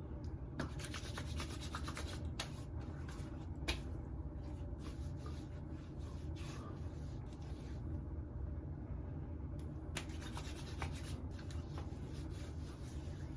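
Hands rubbing aftershave balm into the skin: soft, steady rubbing, with a few small clicks scattered through it.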